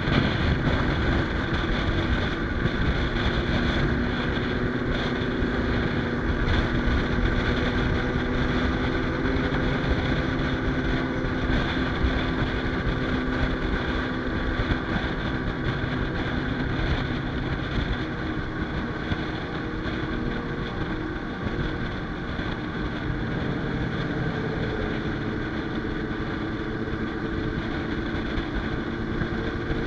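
Motorcycle engine running at a steady cruise while riding, with wind rushing over the microphone.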